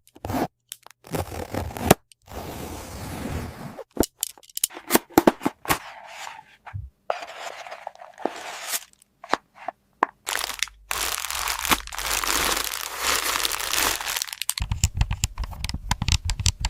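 Toy packaging being torn open and handled: crinkling and tearing plastic and cardboard with many sharp clicks and knocks, a long stretch of tearing or crinkling from about eleven seconds in.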